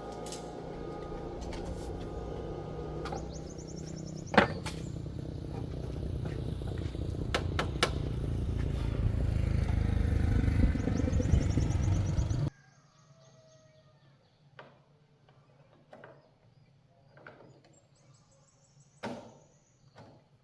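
A motor vehicle engine running, growing steadily louder for about twelve seconds with a few sharp clicks over it, then cut off suddenly. After that, only faint scattered knocks and clicks.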